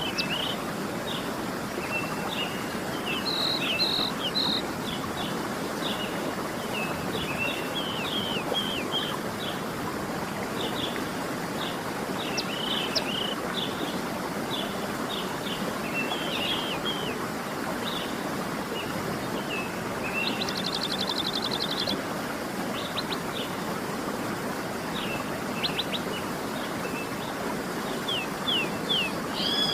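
Waterfall rushing steadily under many small birds chirping and calling. About twenty seconds in, one bird gives a fast trill lasting a second or two.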